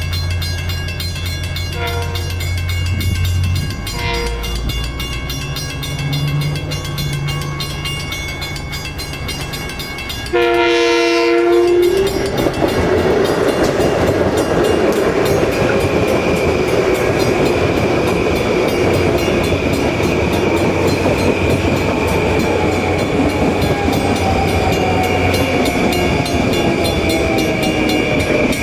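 A steady low hum, then a train horn blasts once for about a second and a half, about ten seconds in, and the train passes close by with loud continuous rolling noise and wheel clatter.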